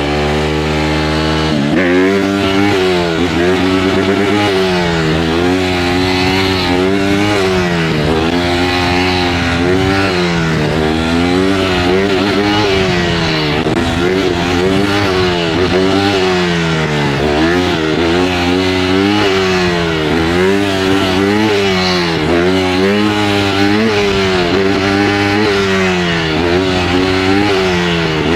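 Honda CRF150R dirt bike's single-cylinder four-stroke engine running under way, its pitch rising and falling over and over, about once a second, as the throttle is worked.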